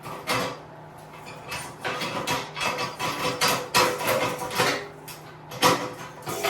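Irregular metallic clinking and scraping, like hand tools and loose metal parts being handled on a minibike frame during teardown, with one sharper knock near the end.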